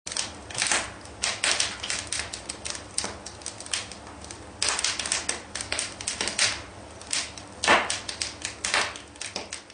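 Rapid, irregular clicking and clacking, several strikes a second, some of them longer and scraping.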